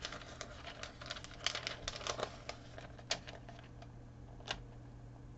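Vinyl decal on its transfer tape being handled and positioned on a canvas: a quick run of light crinkles and ticks about a second in, then two single ticks, over a faint steady hum.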